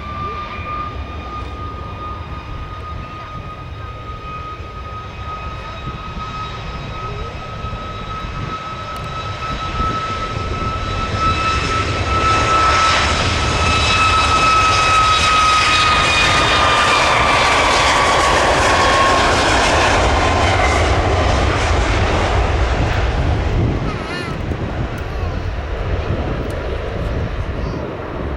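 Boeing 737 MAX 8 jet taking off under its CFM LEAP-1B turbofans: a high fan whine over a deep engine noise. The noise swells to its loudest around the middle. The whine then slides down in pitch as the jet passes, and the engine noise falls off a few seconds before the end.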